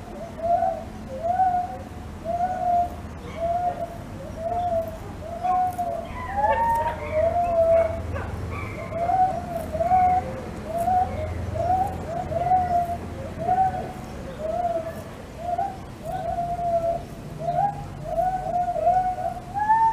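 Birds calling over and over: short arched notes, about one or two a second, sometimes overlapping, with a few higher calls mixed in about a third of the way through.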